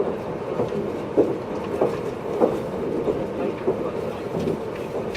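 JR East 583-series electric train running, heard aboard motor car MoHaNe 582-106: a steady rumble of wheels and running gear, with knocks from the wheels over rail joints a little under twice a second.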